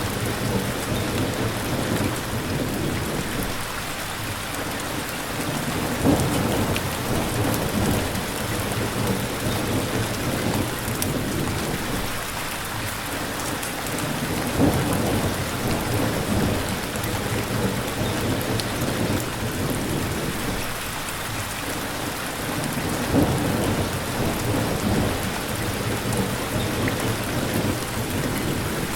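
Steady rain with low rolling thunder that swells and fades. Three brief louder peaks come about six seconds in, around halfway, and again later on.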